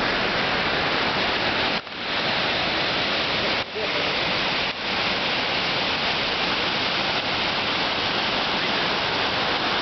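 Steady rush of the 105-metre waterfall at Tivoli, a dense even roar of falling water. It drops out briefly three times, in the first half.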